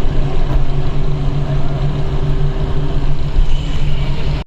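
A moving train's steady running rumble, loud and continuous with a low hum, cutting off suddenly near the end.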